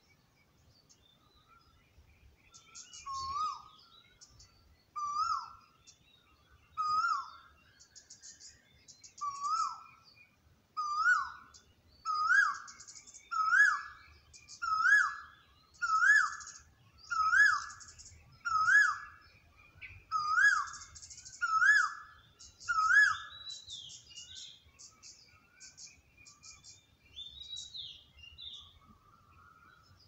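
Birds singing. One bird repeats a loud call about every one and a half seconds, the series creeping up in pitch and growing louder before it stops about three quarters of the way through. Quieter high chirps and trills from other birds run beneath it.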